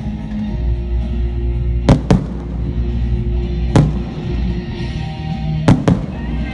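Fireworks going off: five sharp bangs, two pairs in quick succession and one between, over steady background music.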